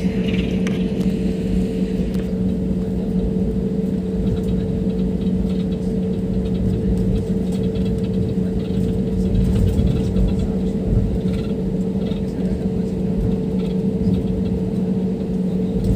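Airliner cabin noise: the steady drone of the jet engines and airflow heard from a passenger seat, a low rumble carrying two even hum tones.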